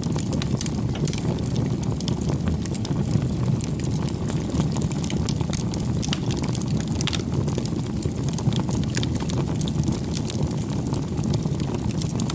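Wood fire burning: a steady low rush of flames with frequent small, sharp crackles and pops at irregular intervals.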